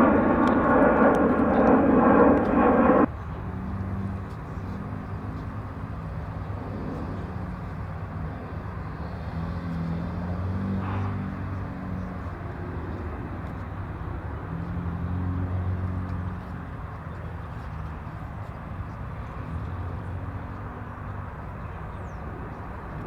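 Airband radio noise, a loud hum with steady tones, cuts off sharply about three seconds in. After it, jet aircraft engines rumble low in the distance, swelling and easing a few times.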